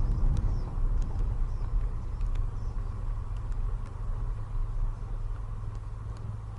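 Steady low rumble of a moving road vehicle, engine and road noise, with a few light clicks, slowly growing quieter.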